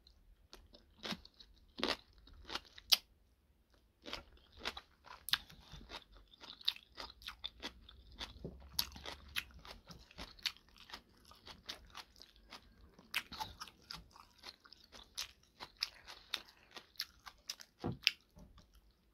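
Chewing and crunching a mouthful of homemade kimchi: many crisp, irregular crunches, with a short lull about three seconds in.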